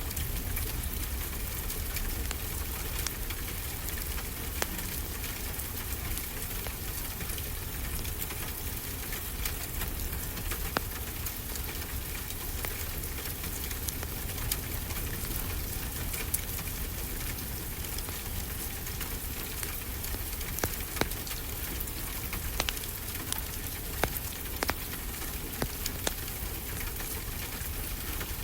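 Steady rain falling, mixed with a wood fire crackling in a fireplace: scattered sharp pops over the rain's even hiss, coming more often in the last third.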